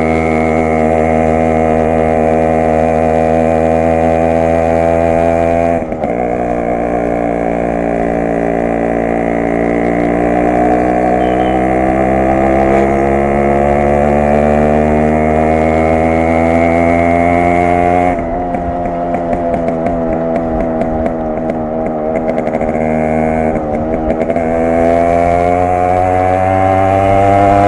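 Yamaha RX 100's two-stroke single-cylinder engine and exhaust on the move. It runs steadily, dips briefly about six seconds in, then climbs slowly in pitch. From about two-thirds of the way through it turns rough and choppy as the throttle eases, then picks up and rises again near the end.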